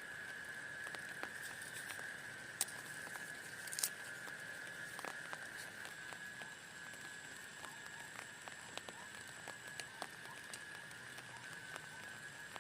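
Rain pattering, with scattered individual drops ticking sharply, two louder ones a few seconds in, over a steady high-pitched tone.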